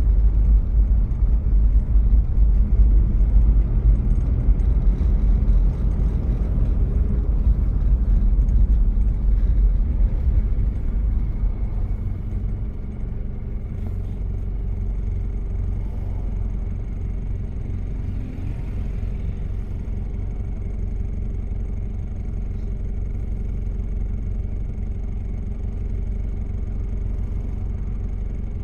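Diesel engine of a 1993 Toyota Prado running while driving, a steady low rumble. It is louder for about the first ten seconds, then eases to a lower, steadier level.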